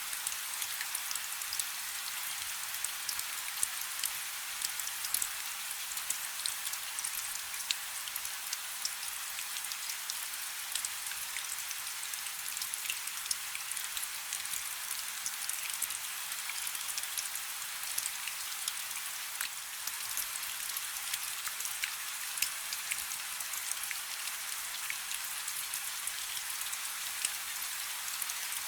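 Steady rain falling on a river: an even hiss with many small, separate drop impacts scattered through it.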